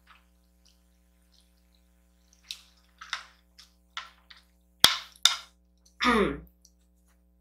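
Close-miked eating sounds of kimchi noodles: a run of short, wet chewing and smacking noises, two sharp clicks about five seconds in, then a short mouth sound falling in pitch.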